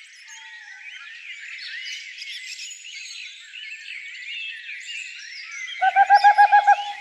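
Dawn-chorus-like mix of many small songbirds chirping and warbling together. Near the end a louder, lower bird call cuts in: a rapid run of about eight clear notes in a second, ending in one drawn-out fading note.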